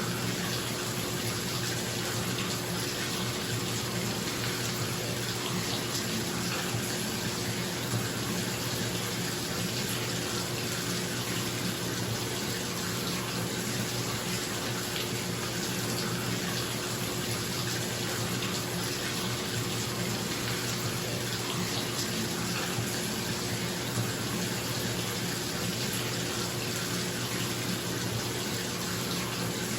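Bathtub faucet running into the tub, a steady unbroken rush of water, over the steady hum of a bathroom exhaust fan.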